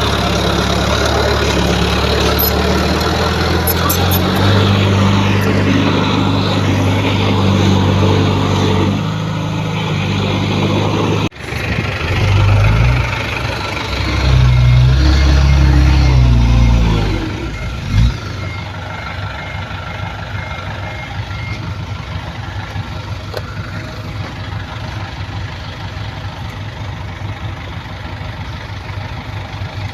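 Diesel engines of heavy earthmoving machinery running, with a sudden break about eleven seconds in, then revving up and down before settling to a steadier, quieter run. A backup alarm beeps for a few seconds after the revving dies down.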